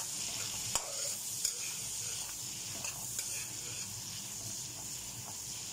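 Onion, garlic, ginger and tomato sizzling in butter in a wok as a spatula stirs and scrapes them around, with a few sharp clicks of the utensil against the pan.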